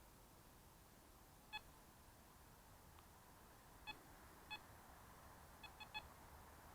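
Metal detector sounding short beeps as it passes over buried metal: six brief tones of the same pitch, spaced irregularly, the last three in quick succession.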